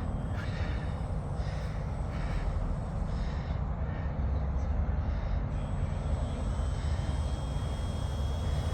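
Radio-controlled scale F4U-1A Corsair flying just after takeoff: a steady low drone from its engine and propeller, with a faint high whine that rises slightly near the end.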